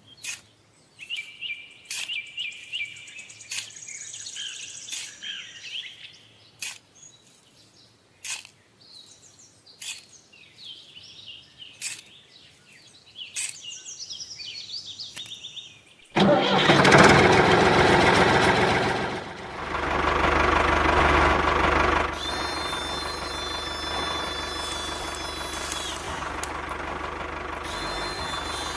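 Birds chirping amid scattered sharp clicks, then about halfway through a small motor starts and runs loudly and steadily, with a high whine for a few seconds.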